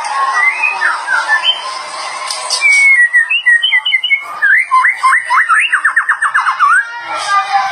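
A songbird singing a loud whistled song: a string of clear notes from about two and a half seconds in, then a fast trill of rising sweeps, about six a second, ending shortly before the close, over a busier chatter of other birds at the start.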